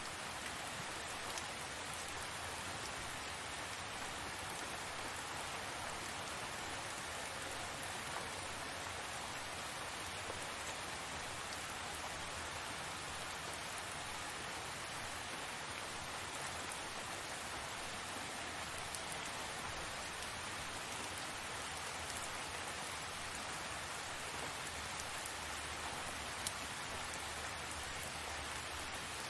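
Steady heavy rain falling and pattering on surfaces, an even hiss with occasional sharper drop ticks.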